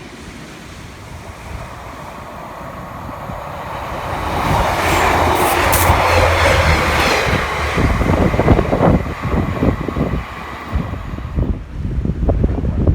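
A train passing close by. It grows louder from about four seconds in, with a steady low engine drone, and then gives way to a rattle of wheels and carriages going by.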